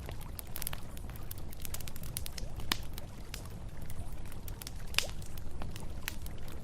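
Campfire crackling with irregular sharp pops, the loudest about five seconds in, over the steady rush of a river.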